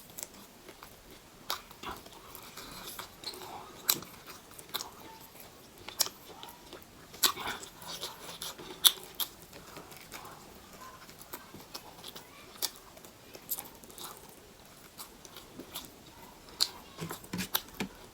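Close-miked eating sounds: a person chewing and biting food, with irregular wet smacks and crisp crunching clicks.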